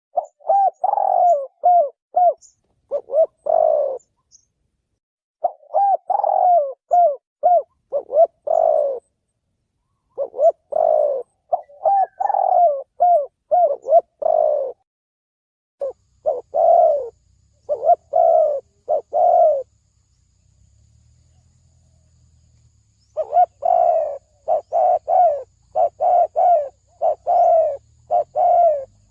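Spotted dove cooing as a lure call: repeated phrases of several low, arching coos. Each phrase lasts a few seconds, with short pauses between them and one longer pause about two-thirds of the way through.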